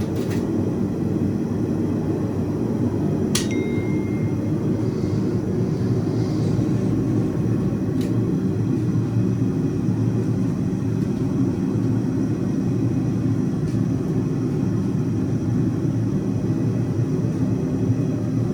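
Blacksmith's forge running with a steady low rushing noise while stock heats in the fire. About three and a half seconds in comes a single short metallic ping that rings briefly.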